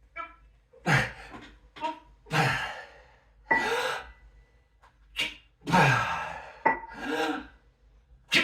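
A man breathing hard in a series of loud gasps and sighing exhales, some with a voiced grunt, about one every second or so: out of breath from exercising.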